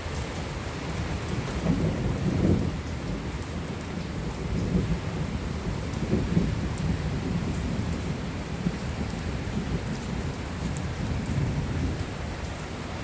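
Thunder rumbling over steady rain, swelling several times, loudest about two seconds in.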